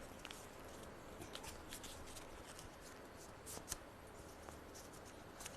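Faint rustling and crinkling of a sheet of paper being folded by hand, with a few soft clicks, the clearest about three and a half seconds in.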